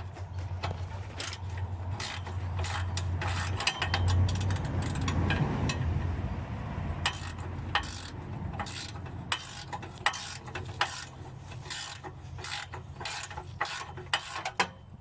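Wrench working a nut on an exhaust fitting: a quick, irregular run of metallic clicks and scrapes as the nut is turned, with a longer grinding stretch near the middle, over a steady low hum.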